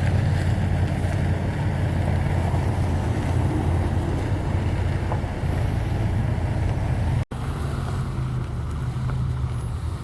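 Steady low engine rumble of a moving vehicle, with wind noise on the microphone; the sound cuts out for an instant about seven seconds in and goes on a little quieter.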